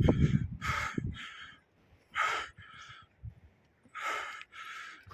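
A person breathing hard from exertion while trekking, with hissing in-and-out breaths in pairs about every one and a half seconds.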